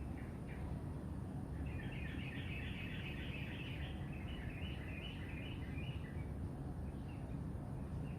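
A songbird singing a long, rapid run of repeated high notes that starts about a second and a half in and stops after about five seconds, with a few short notes before and after. A steady low rumble runs underneath.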